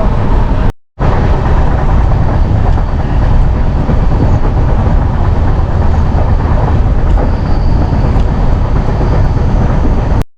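Himgiri Express passenger train running along the track: a loud, steady rumble and rattle of the moving coaches. It cuts out briefly about a second in.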